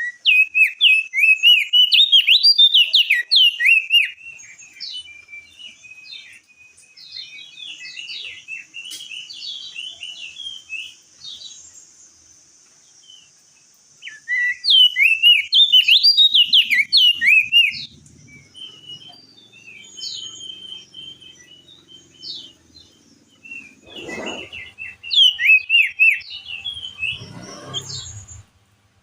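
Crested white-eye (opior jambul) singing in three loud bursts of rapid, chirpy whistled notes, with softer scattered calls between the bursts. A faint high hiss runs behind it, and there are two dull knocks near the end.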